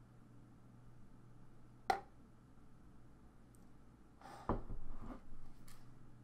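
Quiet room with a faint steady hum; a single sharp click about two seconds in, then a brief scuff and rustle of movement a little past halfway as the helmeted wearer shifts and turns.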